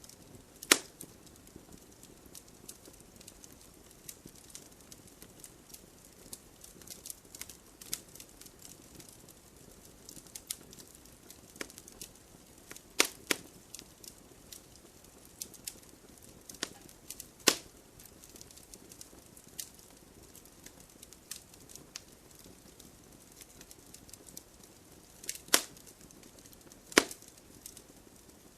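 Wood fire crackling: frequent small clicks over a faint, steady hiss of flames, with a handful of loud, sharp pops as the burning logs split.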